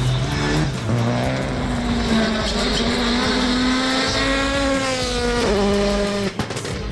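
Rally car engine at high revs, its pitch climbing steadily in one gear and then dropping sharply at an upshift about five and a half seconds in.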